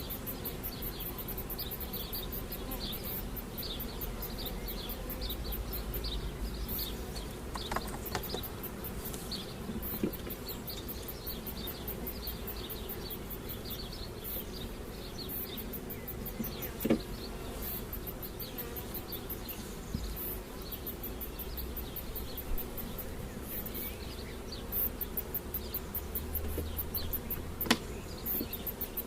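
Honey bees buzzing steadily around an opened hive, with a few sharp knocks spread through.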